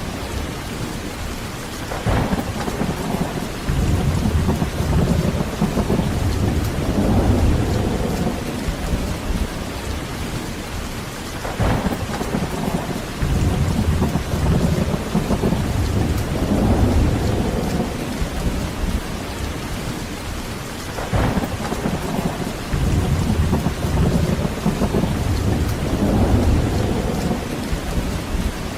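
Heavy rain falling steadily, with thunder: three times a sharp crack is followed a second or two later by a long, low rolling rumble.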